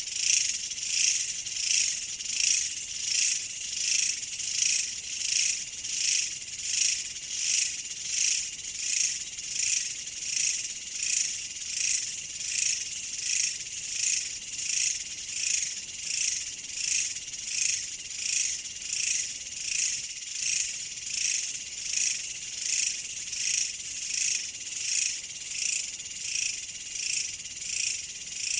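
A chorus of insects trilling, high-pitched and continuous, swelling and fading evenly about once a second.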